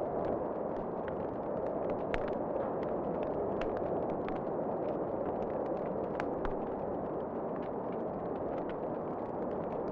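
Wood fire in a fireplace crackling, with irregular sharp pops and snaps, a couple of louder ones about two and six seconds in, over a steady rushing noise.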